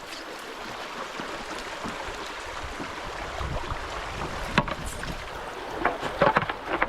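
Canoe moving along a shallow stream: steady water rush with wind on the microphone, a single sharp knock a bit past halfway, and a short run of knocks near the end.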